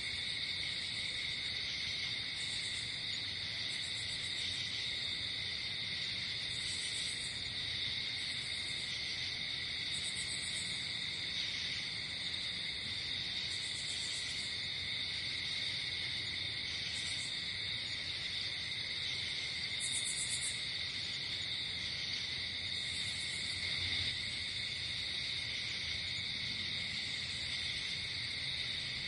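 Night insect chorus: crickets trilling steadily on two pitches, with a higher insect call in short bursts every two to three seconds.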